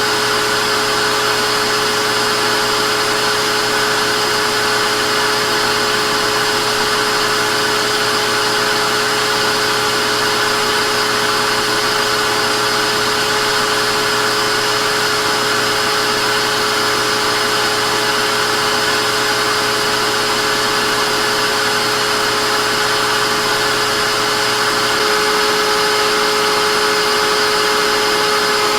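Vacuum cleaner motor running steadily with a whirring whine, its tone shifting slightly and getting a little louder near the end.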